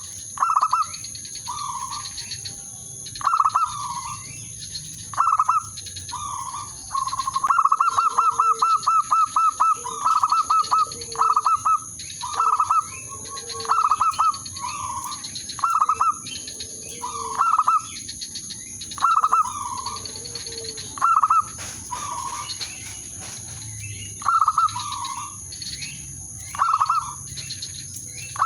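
Zebra dove (perkutut) cooing: short, repeated phrases every second or two, with a fast run of rapid notes about seven seconds in. Fainter chirps and a steady high-pitched whine sit underneath.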